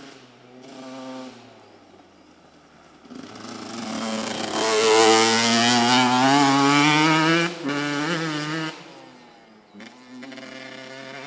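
Yamaha YZ125 two-stroke motocross bike accelerating past, getting loud through the middle with its pitch climbing steadily. The throttle shuts off with a brief blip, and the engine then sounds fainter and more distant.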